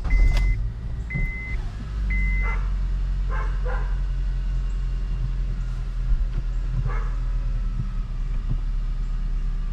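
Honda Accord engine running with the clutch in, while a dashboard warning chime beeps three times about a second apart. About two seconds in, the engine note steps up and then holds a steady idle, which the owner finds unusual just after adjusting the clutch.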